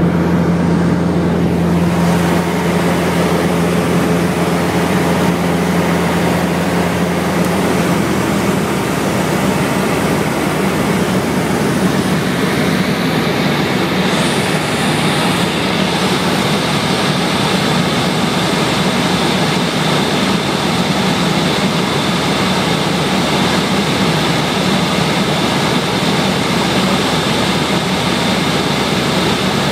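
Light aircraft's piston engine and propeller running steadily, with the engine note shifting about eight seconds in.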